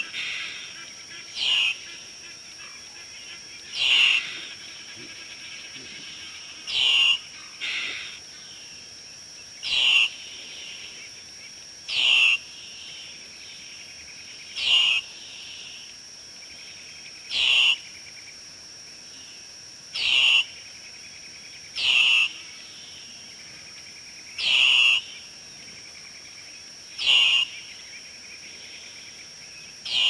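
A bird calling over and over, one short falling call about every two to three seconds, over a steady high whine.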